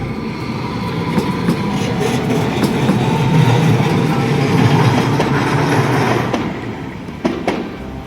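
A Tokyu Setagaya Line train passes over the level crossing. Its running noise grows louder to a peak in the middle and then fades, and its wheels clack sharply over the rail joints near the end.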